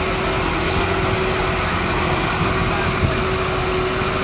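New Holland T7.315's six-cylinder diesel engine running steadily, with a steady whine over it.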